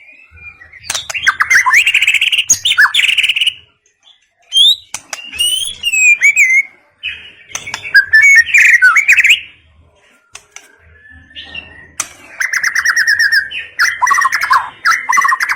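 White-rumped shama singing: loud, varied whistled phrases with quick trills and chatters, delivered in about four bursts separated by short pauses.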